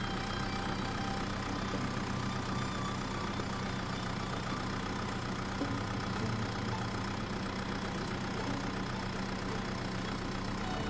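Tractor engine running steadily at a low, even idle-like hum.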